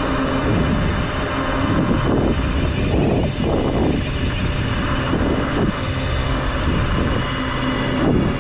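Bafang BBS-HD mid-drive electric motor whining under power on a fat-tire e-bike, with wind rushing over the microphone.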